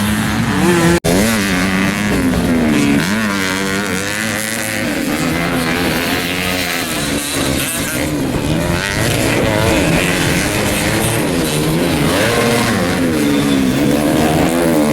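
Several standard underbone motorcycles racing on a dirt track, their small four-stroke engines revving up and down with overlapping, wavering pitches. The sound cuts out for an instant about a second in.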